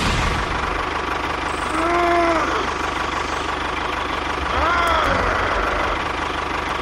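A small engine running steadily with a low, even rumble. Twice, about two and five seconds in, a short voice sound rises and falls in pitch over it.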